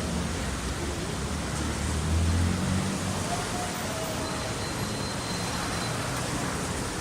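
Wet street in the rain: a steady hiss of rain and tyres on wet road, with a passing vehicle's engine rumble swelling about two seconds in.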